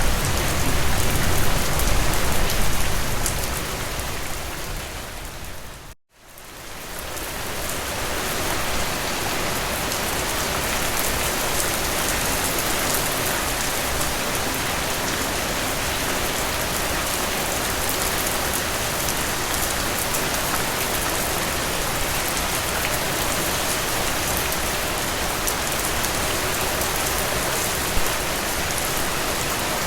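Heavy rain falling, a dense steady hiss of drops on surfaces. About six seconds in it fades out to a moment of silence and fades straight back in, then runs on evenly.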